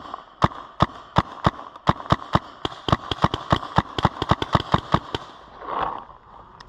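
Paintball marker firing a rapid string of about twenty shots, the pops coming faster in the middle and stopping about five seconds in.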